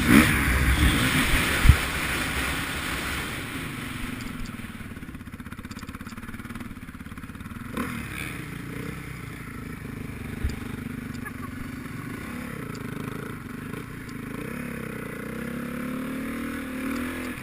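Motocross bike engine, loud at the start and fading over the first few seconds as the bike moves away. It carries on as a quieter, wavering drone that swells again near the end, with a few short knocks along the way.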